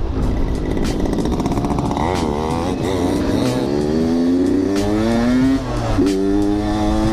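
Yamaha RX-King's 135 cc two-stroke single-cylinder engine under way: the revs waver, then climb steadily through a gear, drop sharply at a gear change about five and a half seconds in, and pull up again.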